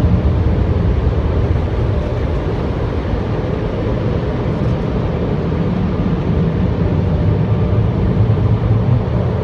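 Automatic car wash machinery running steadily, a loud continuous rumble and rush of water, brushes or blowers with no clear breaks.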